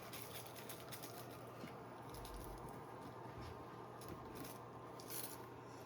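Faint rustling and light tapping, with a few short scratchy scrapes about four to five seconds in.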